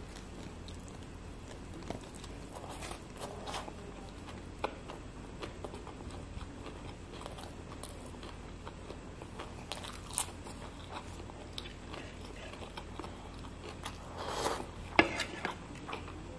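Close-miked mouth sounds of a person chewing rice and snakehead fish in yellow curry sauce: many soft wet smacks and clicks, with a few louder ones about 14 to 15 seconds in.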